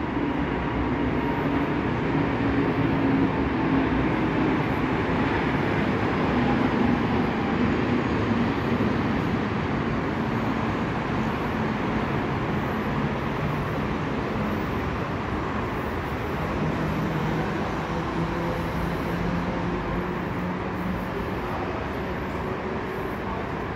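Electric commuter train moving slowly, a steady rumble with a low hum that drops in pitch about halfway through.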